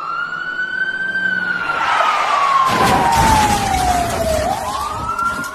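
Emergency vehicle siren in a slow wail: the pitch rises, falls steadily for about three seconds, then climbs again near the end, over road and engine noise that swells for a second or so in the middle.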